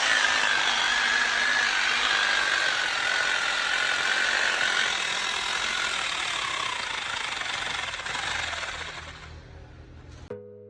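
Electric concrete drill (rotary hammer) running with a hammering rattle over a motor whine that sags slowly in pitch, then winds down and stops near the end. The drill runs slowly and unevenly, which here comes from worn carbon brushes, one of them broken.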